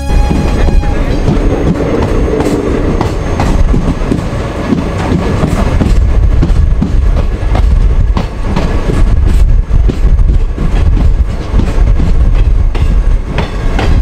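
Passenger train running, heard from an open coach door: a heavy, steady rumble with irregular clacking of the wheels over the rails.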